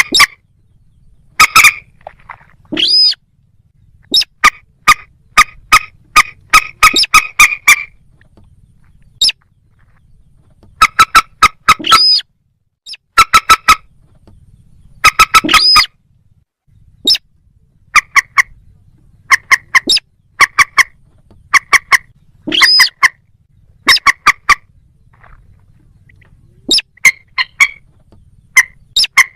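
Calls of rail-family marsh birds, moorhen and crake, in bursts of short, sharp, rapidly repeated notes. A longer rising call breaks in a few times.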